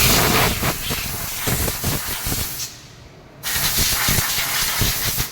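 Loud, steady hiss of a spray jet that starts abruptly. It breaks off for under a second about three seconds in, then resumes.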